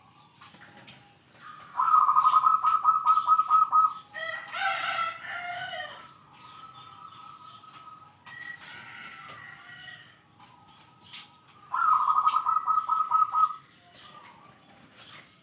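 A zebra dove (perkutut) singing twice, each time a fast run of about ten short, evenly spaced coos lasting about two seconds. Between the two runs a different, harsher bird call is heard, along with scattered sharp clicks.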